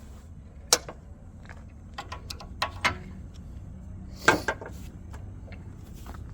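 Scattered clanks and clicks of metal tools and parts being handled, with two sharper knocks, one under a second in and one past the four-second mark, over a steady low hum.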